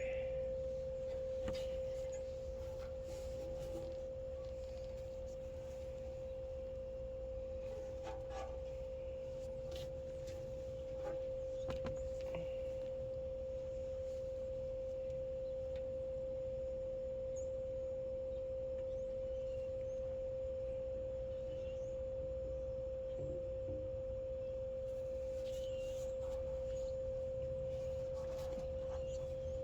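A steady, unchanging high hum-like tone, with a low rumble beneath it and a few faint clicks and knocks of handling.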